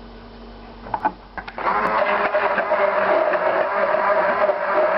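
A few clicks, then an electric blender switched on about a second and a half in, running steadily with a constant whine as it purées a garlic marinade of mayonnaise, kefir and garlic cloves.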